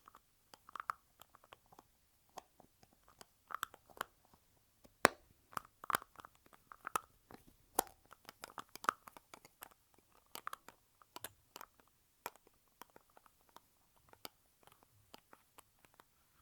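Lipstick tubes being handled close to the microphone: a quick, irregular run of sharp clicks and taps from the cases and caps, some with a brief hollow ring.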